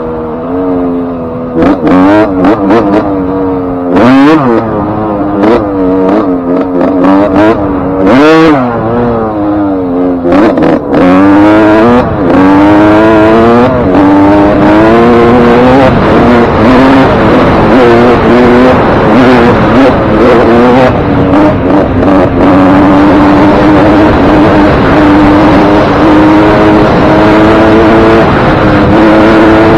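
Suzuki RM125 single-cylinder two-stroke dirt bike engine, freshly rebuilt with a new piston ring and wrist pin, revving up and down repeatedly, then holding a high, steady pitch that climbs slowly through the second half.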